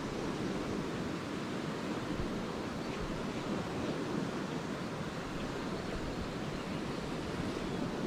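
Lake waves breaking and washing on the shore: a steady, even surf noise with no single crash standing out.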